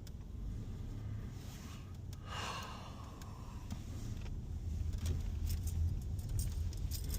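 Low steady rumble of an idling car, with a brief hissing swell about two and a half seconds in and a run of light clicks near the end.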